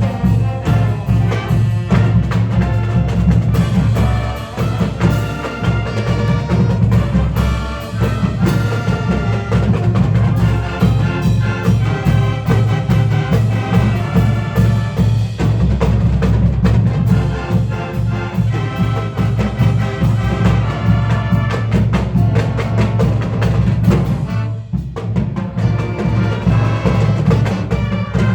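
Marching band playing: brass over drums and percussion, with a brief break a few seconds before the end before the band plays on.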